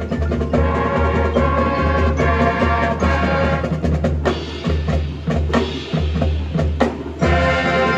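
High school marching band playing: brass and woodwinds together with drums and percussion. The texture thins out about halfway through, and the full band comes back in strongly near the end.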